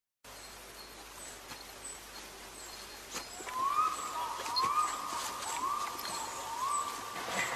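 Forest ambience with birds calling: short high chirps repeat throughout, and from about three and a half seconds in a lower call that rises and then holds comes four times, about a second apart, over a soft steady hiss with a few faint clicks.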